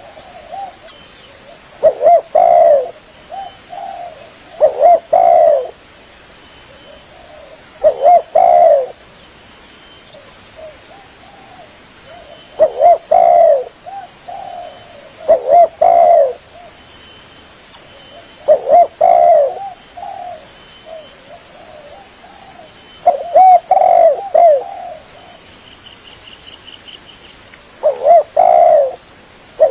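Spotted dove (tekukur) cooing: a short burry call phrase repeated about nine times, every three to five seconds.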